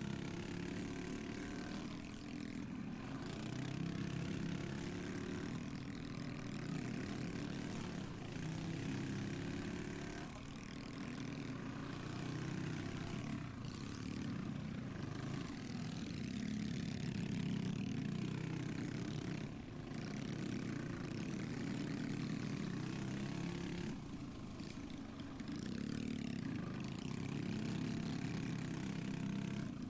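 Pit bike engine racing, revving up and easing off again and again as the rider throttles on and off around the track.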